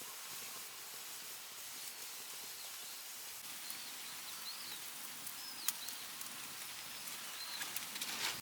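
Pork belly sizzling in a grill pan over a wood fire: a soft, steady hiss with a few sharp pops, and faint bird chirps in the background.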